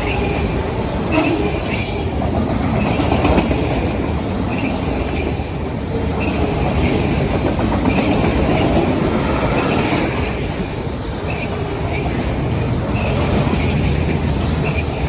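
A CSX freight train of autorack cars rolling past with a steady rumble of wheels on rail, and short high wheel squeals now and then.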